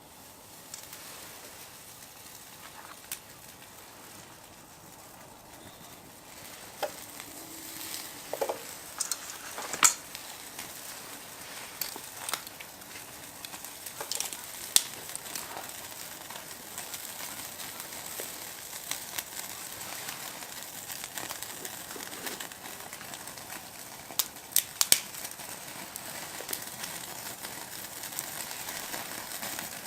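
Meat sizzling on a grill over a fire, with scattered sharp clicks and pops, a few of them louder.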